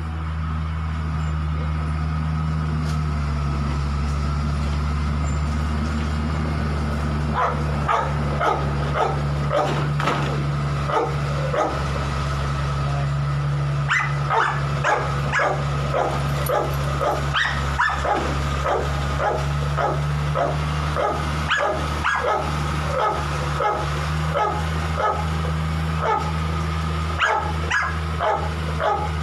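A dog barking repeatedly, about two short barks a second, starting about a quarter of the way in and going on with a short break midway. A steady low drone runs underneath.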